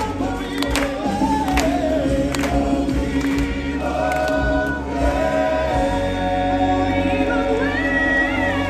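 Live show music with a choir of voices singing long-held notes over a steady bass accompaniment; a higher voice line rises and holds near the end.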